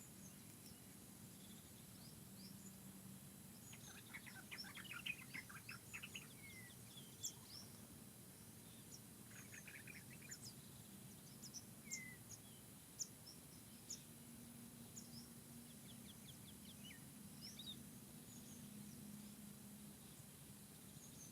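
Faint forest birdsong: scattered short, high chirps from several birds, with two quick rattling trills about four and nine seconds in, over a faint steady low hum.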